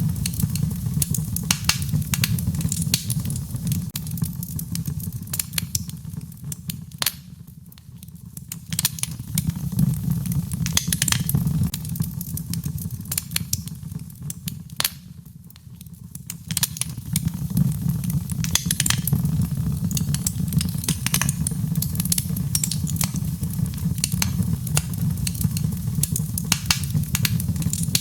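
Fire in a fireplace crackling and popping: frequent sharp, irregular snaps over a steady low rumble of the flames. The crackling briefly dies down twice, about a quarter and about halfway in, then picks up again.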